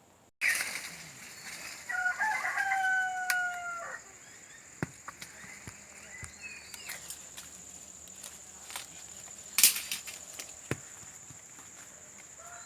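A rooster crowing once, a pitched call of about two seconds with a slight fall at the end, over a steady high thin whine. A few sharp clicks follow, the loudest about two-thirds of the way through.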